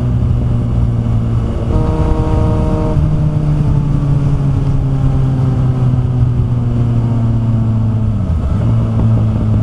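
Kawasaki Z800 inline-four motorcycle running with its exhaust's dB killer removed, heard from the moving bike. The engine note brightens briefly about two seconds in, then sinks slowly in pitch as the bike rolls off, with a short dip near the end, over wind noise.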